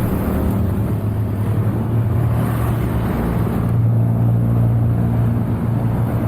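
A vehicle engine running steadily while on the move: a low, even drone over road noise, growing a little stronger about four seconds in.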